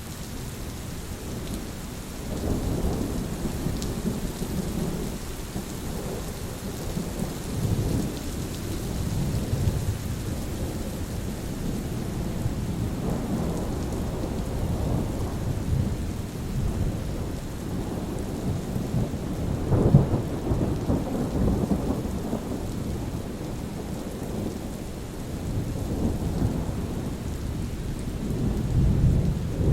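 Steady rain falling, with thunder rumbling in rolling swells throughout; the loudest peal comes about two-thirds of the way through, and another swells near the end.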